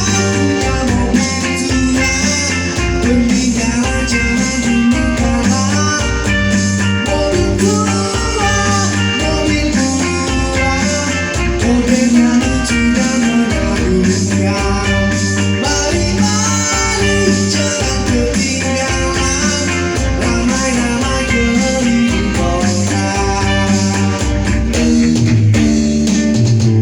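A live band playing a pop-rock song, with guitar, bass and drums behind a singing voice in a steady beat.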